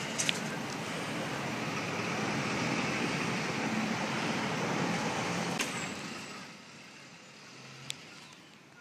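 Vehicle noise: a steady rumble and hiss that fades away about six seconds in, with a few sharp clicks.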